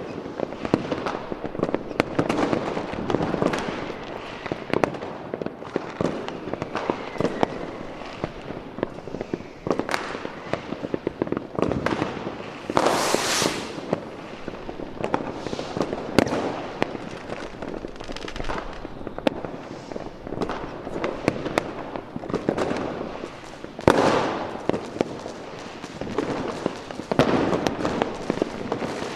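Fireworks going off: a dense run of bangs and sharp cracks over continuous crackling, with a hissing burst about halfway through.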